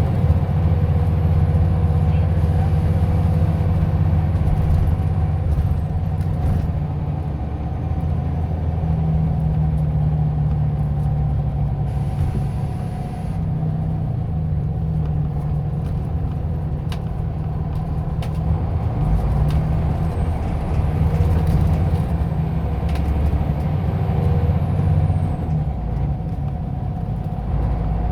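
Scania OmniLink city bus running in service, its engine a steady low drone. There is a brief hiss of air about twelve seconds in.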